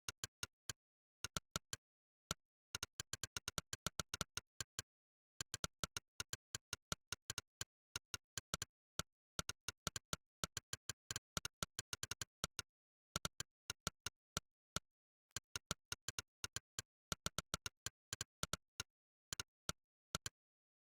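Monkeytype's "click" keypress sound effect, one short synthetic click for each keystroke. The clicks come in quick, uneven runs of typing with brief pauses between bursts, and there is dead silence between them.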